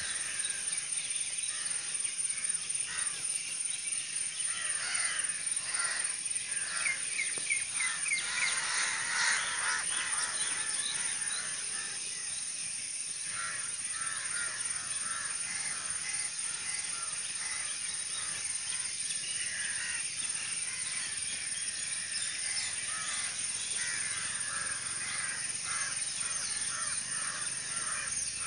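A flock of crows cawing, many calls overlapping, busiest and loudest in the first ten seconds or so, over a steady high-pitched hiss.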